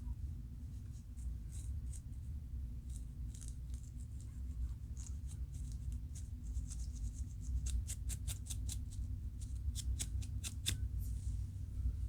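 Scratching at the scalp through the hair to loosen dandruff flakes: short, dry, high scrapes in quick runs, faster and sharper a few seconds before the end. A steady low hum lies under it.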